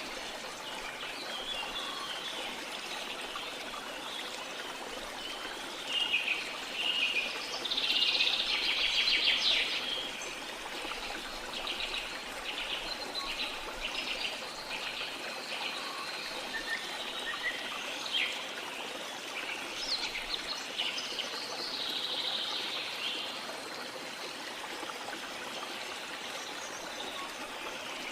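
Steady rush of a waterfall with tropical rainforest birds chirping and calling over it. A loud, rapid run of bird calls stands out between about six and ten seconds in.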